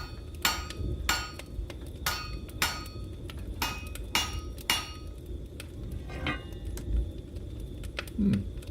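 Blacksmith's hammer striking metal on an anvil: about eight ringing blows roughly half a second apart, working a curve out of the piece. The blows stop about five seconds in.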